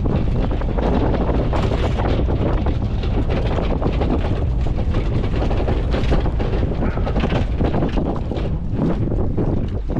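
A 1938 Chevrolet truck's six-cylinder engine running while the truck is driven, under heavy wind buffeting on the microphone.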